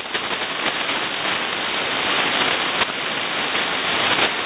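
Open-channel hiss from a shortwave receiver in upper-sideband mode with no station transmitting: steady static cut off above about 4 kHz, with a few faint clicks.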